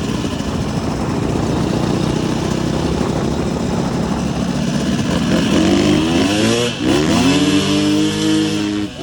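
Dirt bike engine running under way. About five seconds in it revs up, dips briefly near seven seconds, then climbs again and holds a high pitch before backing off at the very end.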